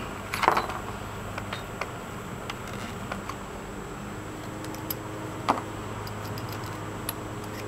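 Scattered small clicks and taps of tools and metal hardware being handled, with a sharper knock about half a second in and another about five and a half seconds in, over a steady low hum.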